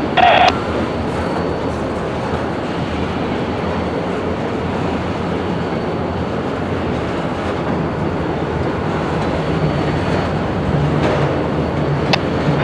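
Freight train moving through a rail yard: a steady noise of locomotive and rolling cars, with a low hum that grows stronger in the last few seconds and a sharp click near the end.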